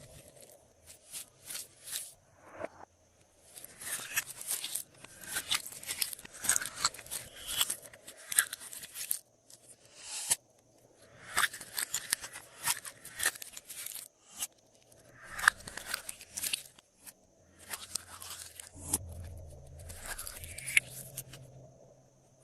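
Glossy slime being mixed and pressed by hand, giving bursts of crackling, clicking pops with short pauses between them.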